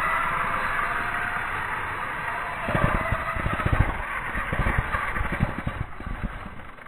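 Syma S39 RC helicopter's electric motors and rotors whirring steadily, joined from about three seconds in by low buffeting thumps, then fading out near the end.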